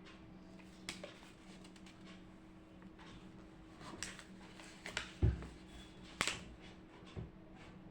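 A few scattered short clicks and knocks, with a low thump about five seconds in, over a steady low hum.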